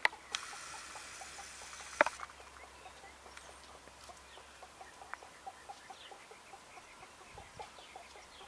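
Birds calling in a quick, even run of short notes, about five a second, likely fowl clucking. A louder knock sounds about two seconds in.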